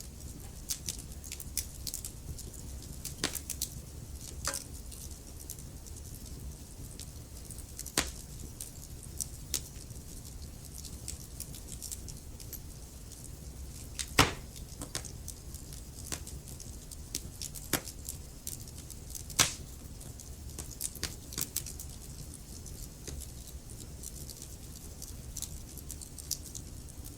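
Wood fire crackling in a fireplace: irregular clicks and pops over a steady low rumble, with two louder pops about 14 and 19 seconds in.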